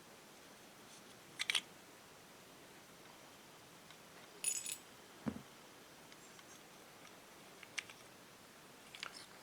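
Small metal carburetor parts clinking as they are handled and set down: a few separate sharp clicks and a brief metallic jingle, with one duller knock about five seconds in.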